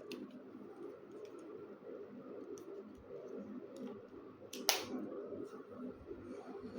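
Air conditioner running with a steady low whir, with scattered light clicks and one sharper click about two-thirds of the way through.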